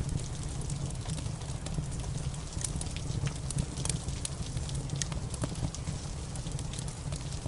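Crackling wood fire in a fireplace, with irregular sharp pops and snaps over a steady low rumble, blended with the steady hiss of rain.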